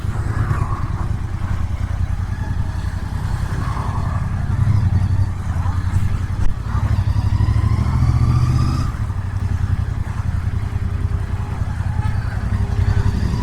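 Royal Enfield Interceptor 650's 648 cc parallel-twin engine running at low speed, its exhaust note rising and falling with the throttle. A single sharp knock comes about six seconds in.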